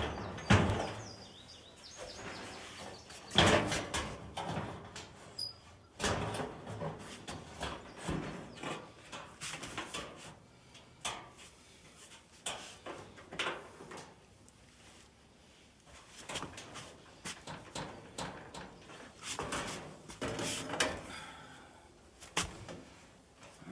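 Irregular knocks, clanks and scrapes of sheet-metal dryer panels being handled and fitted back into place as the dryer cabinet is reassembled, with the loudest knocks near the start and about three seconds in.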